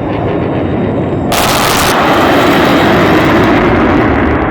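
Jet roar from Blue Angels F/A-18E Super Hornets flying past low during their break. It rises sharply about a second in and stays loud.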